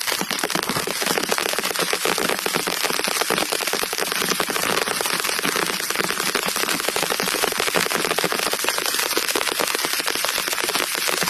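Heavy rain falling, a dense steady patter of drops striking a surface.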